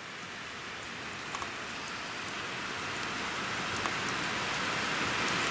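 Steady rain falling, an even hiss with a few faint ticks of drops, growing gradually louder.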